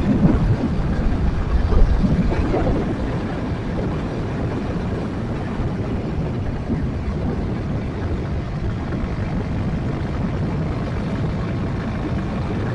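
Yamaha Jupiter MX 135 underbone motorcycle under way, its single-cylinder four-stroke engine running steadily with road noise. A little louder for the first two seconds, then even.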